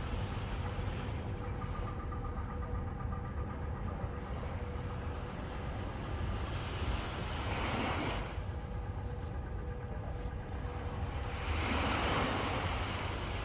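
Ocean waves washing in, two surges of surf hiss swelling and fading about halfway through and near the end, over a steady low rumble of wind on the microphone with a faint steady hum.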